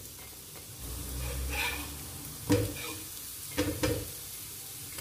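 Potato patties frying in oil on a nonstick tawa, sizzling steadily, while a metal spatula scrapes and knocks on the pan as they are turned over: one sharp knock about halfway through and two more close together a second later.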